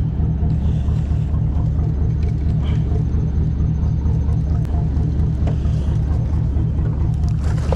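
Boat engine running steadily at idle, a constant low rumble, with a few faint clicks over it.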